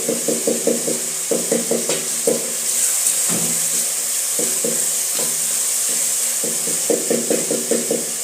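Wooden cooking stick mashing tomatoes in a metal pot, knocking against the pot several times a second in a few bursts with a pause in the middle, over the steady sizzle of frying.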